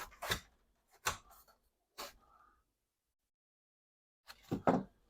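A few short, sharp taps and scrapes, typical of handling and marking workshop material, with a stretch of dead silence in the middle.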